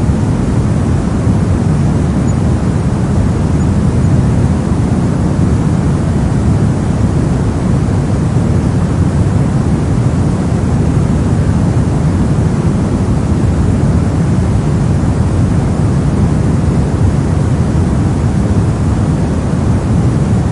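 Steady synthetic soft noise of a white-noise sleep track: an even, unchanging rumbling hiss with most of its weight low down and little at the top.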